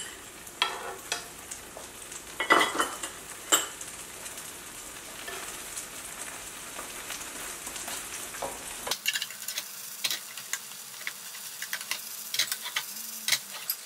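Seafood-scallion pancake (haemul pajeon) sizzling in hot oil in a frying pan, freshly added oil spitting around it. A steady high sizzle with scattered sharp clicks and scrapes of the utensil and pan, the loudest a few seconds in and more frequent near the end.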